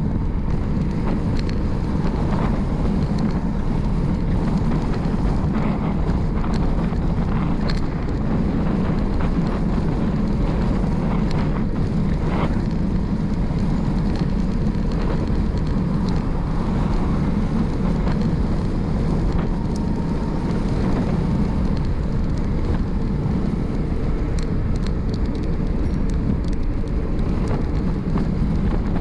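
Steady wind rushing over the microphone of a bicycle rider's camera, from the airflow of riding downhill, with a few faint ticks.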